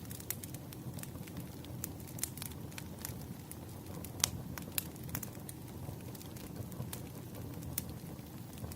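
Burning firewood crackling: a steady low rumble of flames with irregular sharp pops and snaps, the loudest a little past four seconds in.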